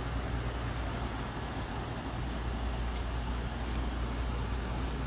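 Steady low vehicle rumble with road or traffic noise.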